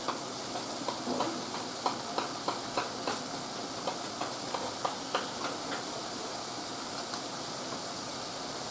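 Masala with potato pieces sizzling in an aluminium kadai, a metal spatula scraping and tapping against the pan through the first several seconds; after that a steady sizzle alone.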